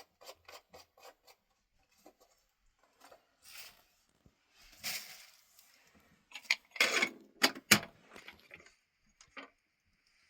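Handling noises: a quick run of light clicks, then some rustling and scraping, and a cluster of louder knocks and scrapes about seven seconds in, like objects or utensils being moved about.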